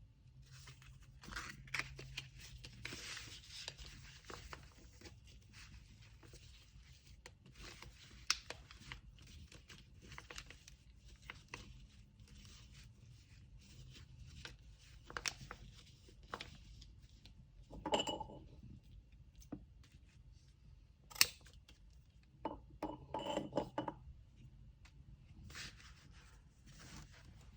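Hands handling packaging materials at a desk: kraft paper rustling and crinkling, with many small clicks and taps. There are two louder rasping bursts, about two-thirds of the way through and again near the end.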